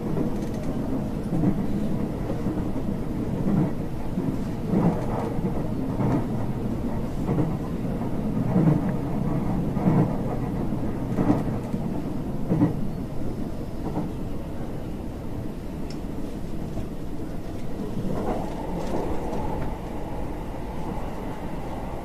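Local train running, heard from inside the carriage: a steady rumble with wheels knocking over rail joints every second or so. A steady higher hum joins in after about eighteen seconds.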